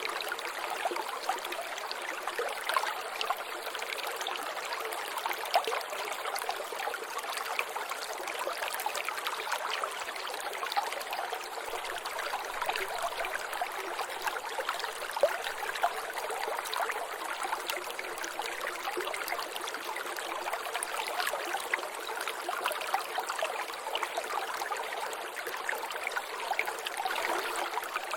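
Water trickling and dripping in a small natural drainage: a steady running splash with many small, irregular drop sounds.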